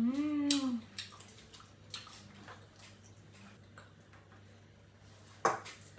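Mukbang eating sounds: wet mouth clicks and chewing, opening with a short hummed voice sound and with a sharp click about five and a half seconds in.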